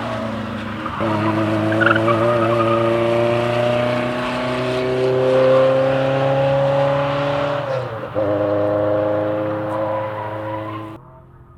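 Rally car engine pulling hard, its pitch climbing slowly, with an upshift about eight seconds in. The sound cuts off abruptly near the end.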